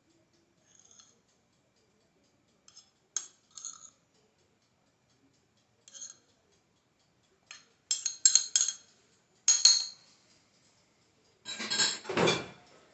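A utensil clinking and tapping against a glass Pyrex baking dish in scattered light clicks, with a quick run of sharper clinks in the middle and a heavier knock and scrape of the dish near the end.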